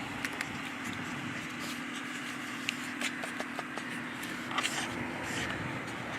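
Steady background hum with scattered light clicks and scrapes, the most noticeable about three seconds in and again a little later.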